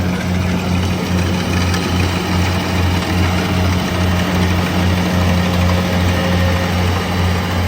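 Rice harvester's engine running steadily with a low hum and a slight regular throb, over a haze of machinery noise.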